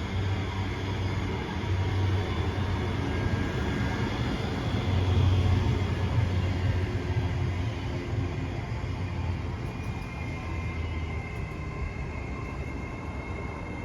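Coupled pair of Class 385 electric multiple units moving at the platform, a steady rumble that swells about five seconds in and then slowly fades. Faint steady high tones come in during the second half.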